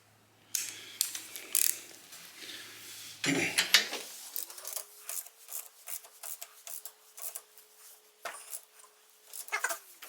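Light metal clicks, clinks and scraping from a torque wrench being handled and its setting adjusted, in irregular short bursts with the loudest clatter about three and a half seconds in.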